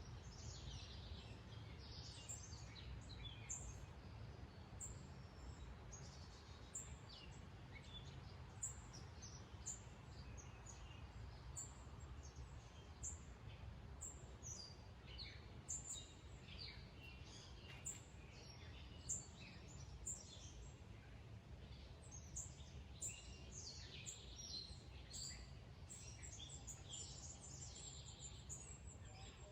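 Wild birds chirping and singing, many short high calls from more than one bird, busiest in the second half, over a faint low steady rumble of outdoor background noise.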